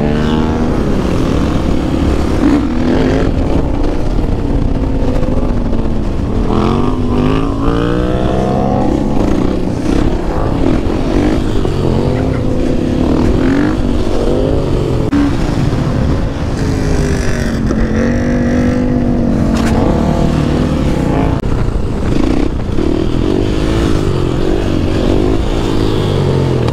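Dirt bike engine being ridden hard, its pitch rising and falling every few seconds as the throttle is opened and rolled off through wheelies, with wind rushing over the microphone.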